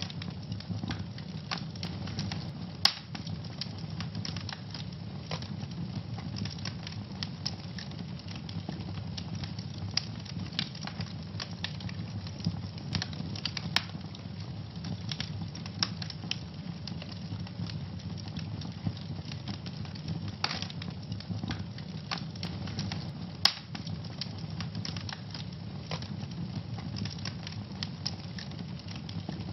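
Wood fire burning in a fireplace, crackling steadily over a low rumble of flame, with frequent sharp pops; two loud snaps stand out, about three seconds in and near twenty-three seconds.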